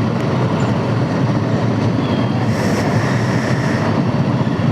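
Steady rumble of a motorcycle riding slowly through heavy city traffic, picked up by the rider's own action camera.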